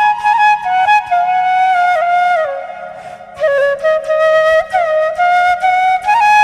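Background music: a flute playing a slow melody that slides between notes, with a short pause about halfway through.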